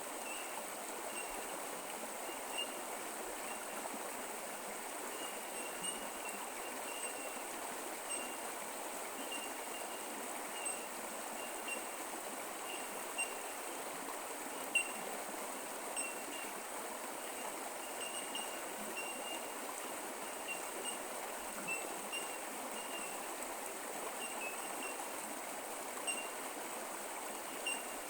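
Creek water running steadily over its bed, an even trickling rush. Faint high-pitched pips recur irregularly throughout, over a faint steady high tone.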